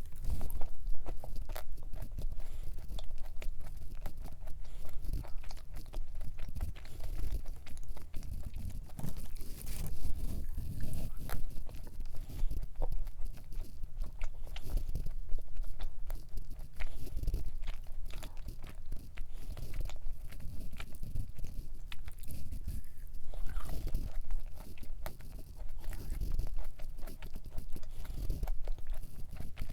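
Biting and chewing a thick cream-cheese cup cookie close to the microphone: a continuous run of small mouth clicks and chewing sounds.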